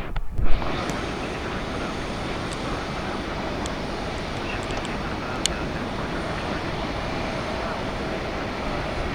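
Jet airliner engine noise, a steady, even roar that holds level throughout. About half a second in there is a brief drop-out and a sharp knock.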